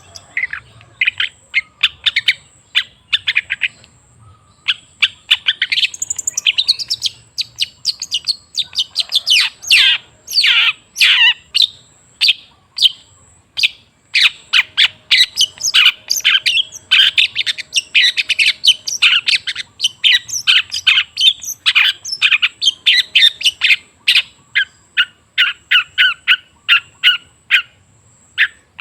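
Long-tailed shrike singing a rapid run of short chattering and whistled notes, with a few downward-sweeping notes around ten seconds in and brief pauses. It is the kind of lure song played to set a silent caged shrike singing.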